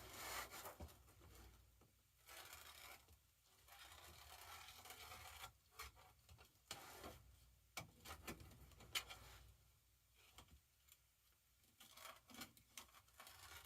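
Faint, irregular rustling and snipping of scissors trimming deco mesh, with a few sharp clicks.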